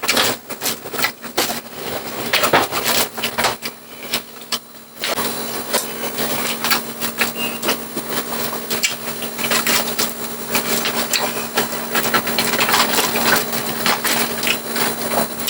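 Chewing and crunching of crispy fried pork: quick, irregular crackling clicks that ease off about four seconds in, then pick up again.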